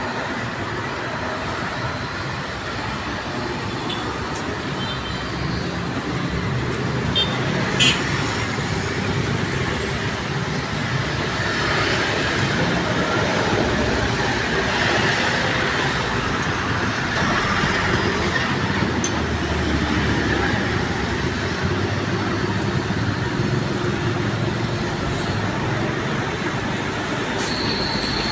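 Steady road traffic noise with truck engines running, and a few short sharp clicks.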